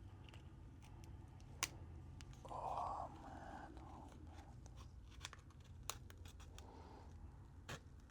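Faint clicks and scrapes of tools prying the back glass off a Samsung Galaxy S22 Ultra, with a short, louder muffled rasp about two and a half seconds in.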